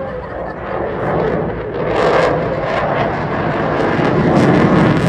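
Eurofighter Typhoon's twin jet engines heard as the fighter flies past, a loud crackling jet noise that builds from about a second in to its loudest near the end.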